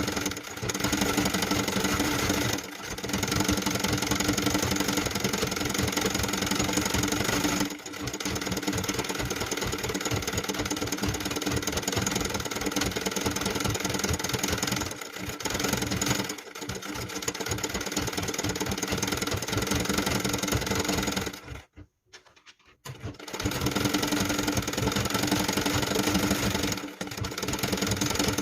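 Sewing machine running in long stitching runs, with a fast even needle rhythm. It pauses briefly several times and stops for about a second around two-thirds of the way through before starting again.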